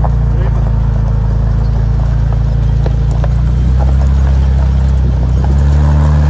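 Vehicle engine running steadily while driving, a deep even drone whose pitch steps up a little near the end as the engine speed changes, with a few faint rattles.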